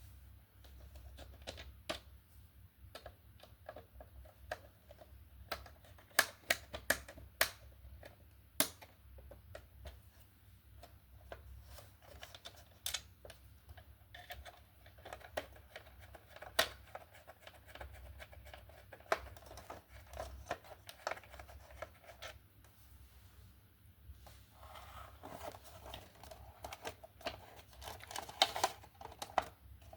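Irregular small clicks, taps and scraping of hands handling small parts and tools at close range, with a few sharper clicks standing out.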